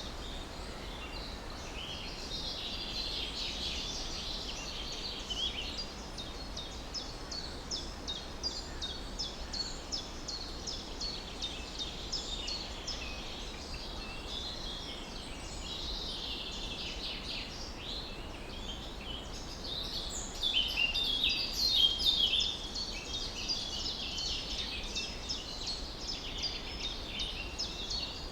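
Many small birds chirping and singing together in a dense morning chorus of quick high calls, busiest and loudest about twenty to twenty-two seconds in, over a steady low background noise.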